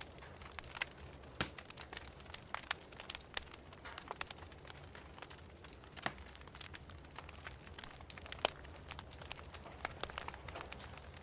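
Wood fire crackling in a fireplace: irregular sharp pops and snaps, a few a second, over a steady low hum, with the loudest snap about eight seconds in.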